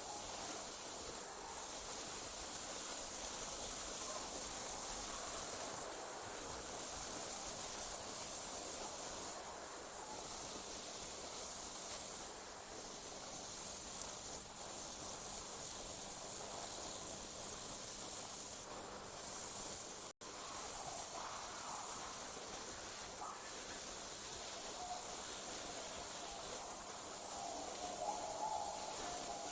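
Night insects such as crickets trilling in one continuous, very high-pitched buzz, broken by short pauses every few seconds.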